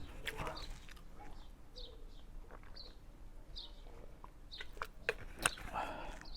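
A small bird chirping repeatedly: short, high chirps that fall in pitch, about one every half second to a second. A few sharp clinks of spoon on bowl come near the end, amid eating sounds.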